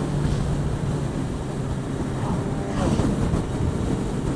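Yamaha XJ6F's inline-four engine running steadily under way, with wind noise on the microphone.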